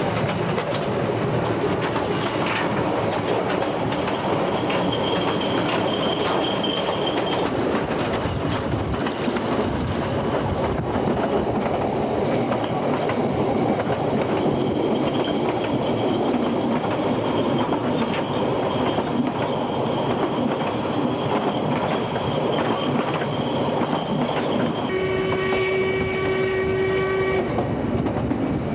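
Ffestiniog Railway narrow-gauge train running, heard from inside a passenger carriage: the steady rumble and clatter of the wheels on the rails, with faint high wheel squeals now and then. Near the end the locomotive sounds one long blast of about two and a half seconds.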